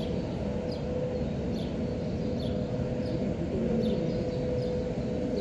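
Small birds chirping in short, quick, falling calls, roughly one a second, over a steady low background rumble and a faint steady hum.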